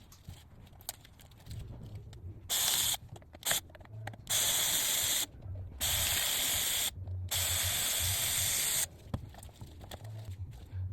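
Pressurised aerosol can spraying in hissing bursts that start and stop abruptly: a short burst, a brief puff, then three longer bursts of about a second or more each.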